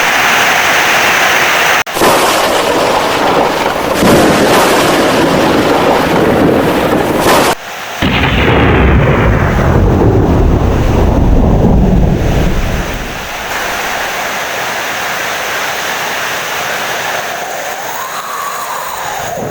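Heavy rain with thunder. The loud downpour breaks off abruptly twice, then a deep thunder rumble rolls from about eight seconds in and dies away about five seconds later, leaving steady rain.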